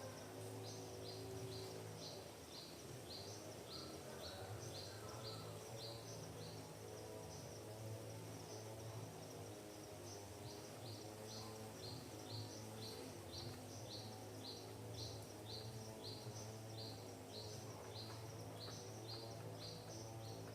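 A bird repeats a short, high, falling note about twice a second in a long series, with a break of a second or so near the middle. A steady low hum runs underneath.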